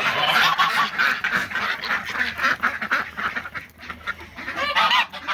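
A flock of domestic ducks and geese calling over one another: a dense run of quacks and honks that thins out after about three seconds, with a few louder honks near the end.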